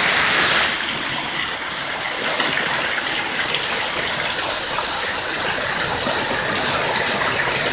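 Loud, steady rush of water from a flood, with no break or rhythm; the hiss is sharpest in the first second.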